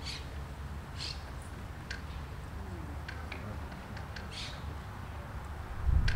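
Small birds chirping in short, scattered high calls over a steady low outdoor rumble, which swells near the end.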